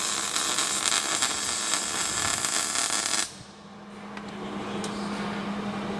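Welder arc crackling steadily for about three seconds as a weld is laid on the exhaust, then cutting off abruptly; a low steady hum carries on after it.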